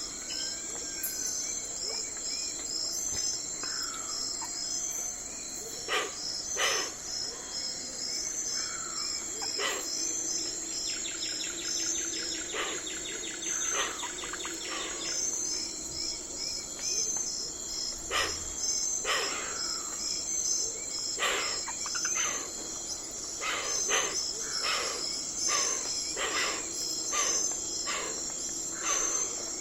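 Night forest ambience: a steady, high chorus of crickets and other insects chirping, with birds giving short calls and whistled glides now and then. About a third of the way in, a rapid trill runs for a few seconds.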